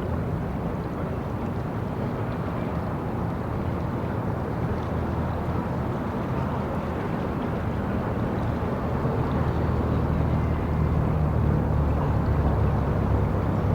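Low engine rumble of city street traffic, growing louder over the second half as a vehicle draws near.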